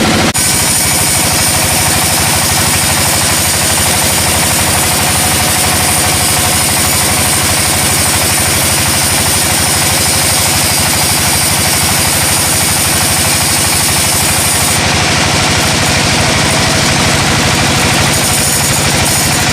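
Engine-driven sawmill machinery running steadily, a loud engine with a fast, even beat under a high hiss.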